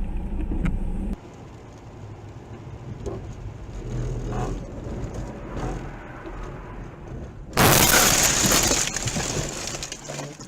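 Vehicle running on the road, then a sudden loud car crash with breaking glass near the end, fading over about two seconds.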